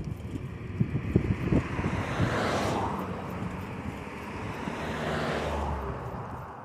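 Two cars passing one after another, each a swell of tyre and road noise that builds and fades, the first peaking about two and a half seconds in and the second a little after five seconds. Wind buffets the microphone.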